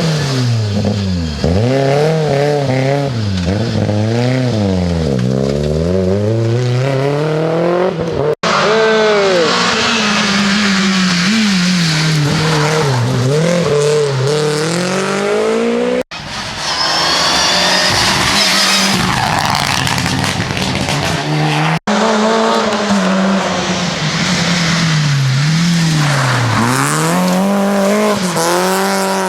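Rally cars driven hard, one after another: engines revving up and down rapidly through the gears, with tyre squeal in places. The sound breaks off three times as one car gives way to the next.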